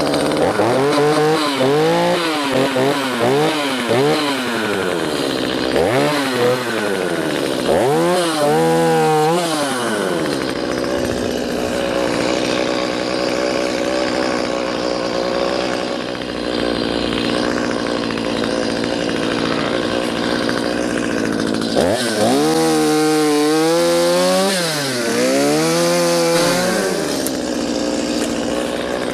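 Stihl MS210 two-stroke chainsaw revving up and down in repeated throttle blips, then held at a steady high speed for about twelve seconds while cutting brush, then blipped up and down again near the end.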